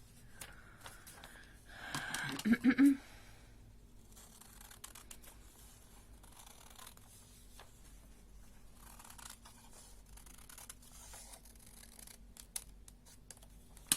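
A sheet of coloured paper being handled and trimmed with scissors: faint rustling and snipping, with one brief louder rustle about two seconds in.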